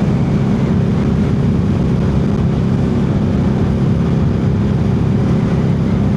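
Harley-Davidson Street 500's V-twin engine running steadily under way, an even low drone that holds without change in revs.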